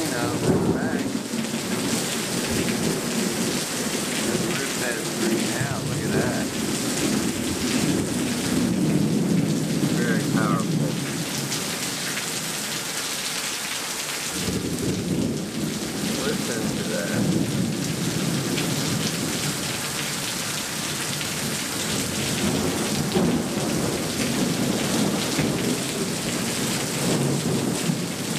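Heavy downpour of rain pouring through a screened pool enclosure onto the paved deck and the pool, a steady loud hiss. Under it a deep rumble swells and fades and drops away for a couple of seconds near the middle.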